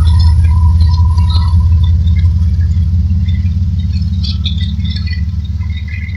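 Freight train of loaded hopper cars rolling past behind BNSF diesel locomotives, a heavy low rumble that slowly fades as the train draws away, with scattered short wheel squeals and clanks.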